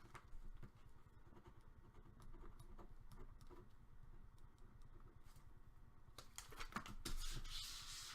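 Faint handling of trading cards and packaging: light clicks and slides, with a louder rustle near the end.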